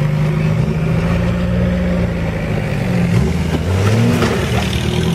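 A 4x4's engine revving under load, its pitch rising and falling as the vehicle tries to bump up a wet rock ledge.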